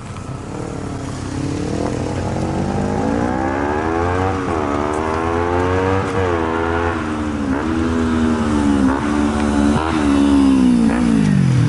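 Kawasaki Ninja 250R parallel-twin running through a full stainless 2-into-1 exhaust with a megaphone muffler, revving hard under a rider. The engine note climbs, then rises and drops in several quick dips, growing louder, and falls away near the end.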